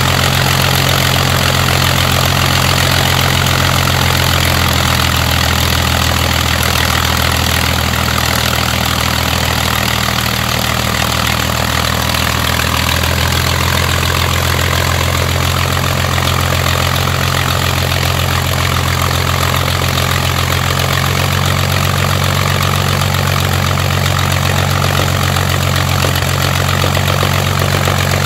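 Rolls-Royce Merlin V12 aero engine running steadily at low speed on a test run after maintenance. Its note shifts slightly a couple of times.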